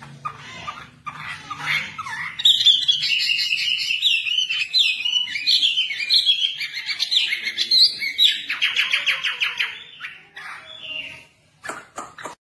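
Wambi songbird singing vigorously: softer chirps at first, then about two seconds in a loud, rapid run of varied whistled notes, ending in a fast trill of evenly repeated notes before dropping off.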